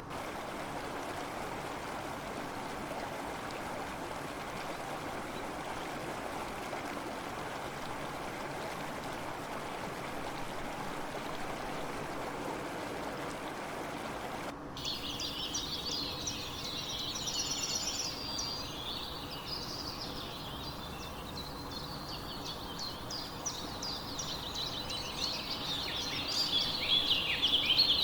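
Steady flowing water, like a stream, that cuts off abruptly about halfway through. Several small birds chirping and twittering follow, growing louder near the end.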